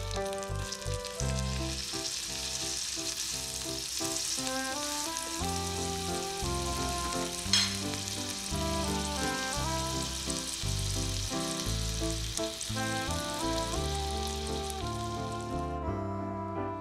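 Tiny burger patty sizzling in oil in a miniature cast-iron skillet over a gas burner, a steady hiss that cuts off near the end, with one sharp click about seven and a half seconds in. Background music plays underneath.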